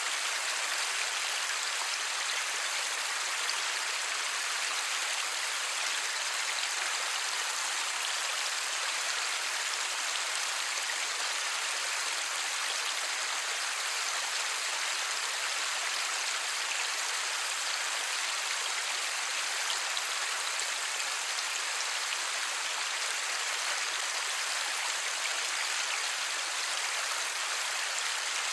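Steady light rain falling, a dense even patter of raindrops with no thunder.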